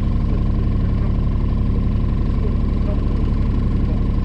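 Mini excavator engine running steadily with an even low pulse and a steady whine above it.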